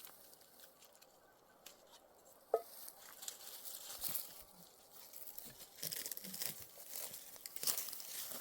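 Intermittent rustling and crinkling of dry plant material, with scattered light crackles and a short squeak about two and a half seconds in.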